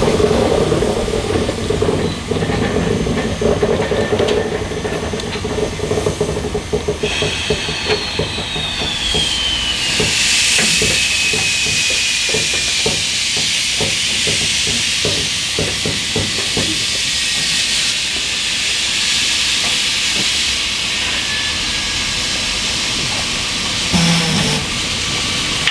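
A steam locomotive hissing steam, with a quick run of regular beats through the middle and a high whine falling in pitch partway through.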